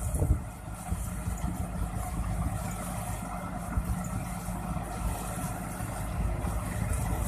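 Combine harvester's engine running steadily with a low rumble.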